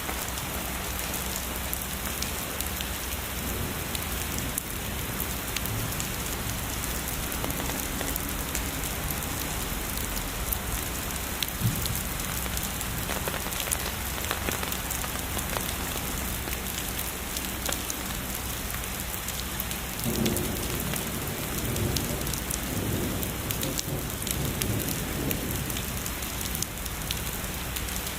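Heavy rain falling steadily, a dense hiss of drops with scattered sharper patters. About twenty seconds in, a low rumble of distant thunder rolls under the rain for several seconds.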